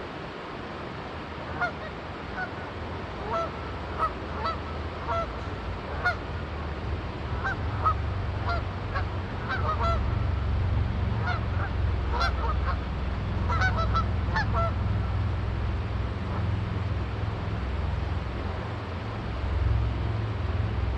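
Canada geese honking in a loose series of short calls over the steady rush of a river. A low engine rumble comes up about eight seconds in and carries on under the calls.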